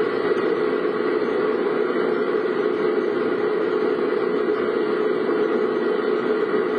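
Steady car noise: engine and road hiss heard from inside a vehicle, running evenly with no distinct events.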